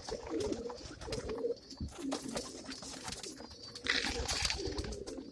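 Domestic pigeons cooing in a loft, several low warbling coos overlapping, with scattered small clicks and a brief rustle about four seconds in.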